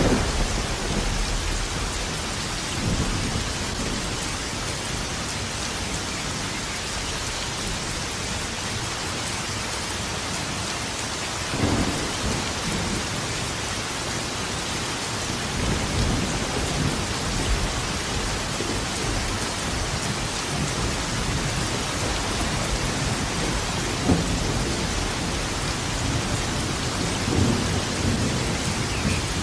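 Thunderstorm: steady rain, with thunder rumbling low several times, longer rolls near the middle and a sharper clap about two-thirds of the way in.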